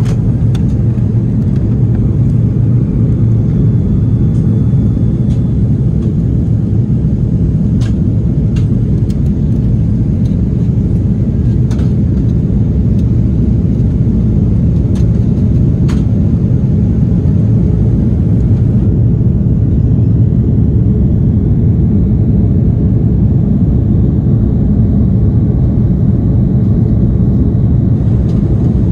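Steady low rumble of an Airbus A330-300 airliner heard from inside the passenger cabin, with a few faint ticks.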